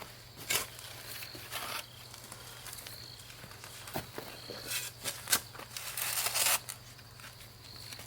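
Irregular footsteps, knocks and scrapes of hands-on outdoor work, with a longer scraping noise about six seconds in.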